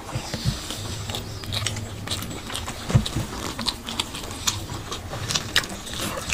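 Mouth sounds of two people eating rice and chicken by hand: chewing and lip-smacking, heard as an irregular scatter of short clicks.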